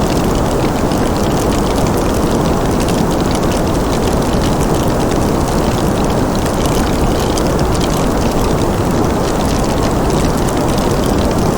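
Fireplace ambience: a steady low rushing noise with small, faint crackles scattered throughout.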